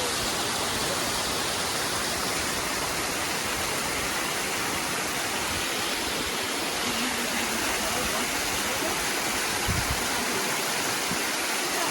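Rushing water of a mountain waterfall, a steady, even noise with no let-up. A brief low thump about ten seconds in.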